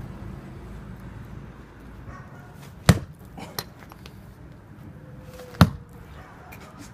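Axe chopping firewood: two sharp strikes into a log about three seconds apart, with a couple of lighter knocks just after the first.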